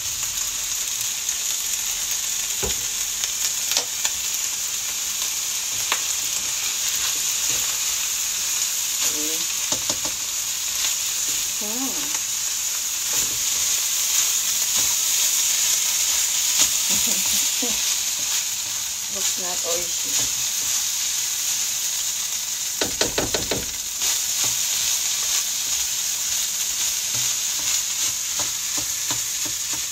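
Fried rice sizzling in a hot nonstick wok as soy sauce is poured in, then stirred and tossed with a spatula that scrapes and taps against the pan, with a quick run of taps late on.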